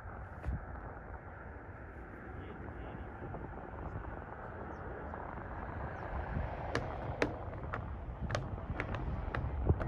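Wind rumbling on the microphone, with a Boeing 737-900ER's jet engines slowly growing louder from about halfway through. Several sharp clicks come near the end.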